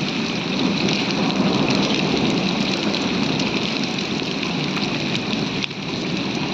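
Heavy rain falling steadily, with hailstones ticking sharply as they strike among the drops.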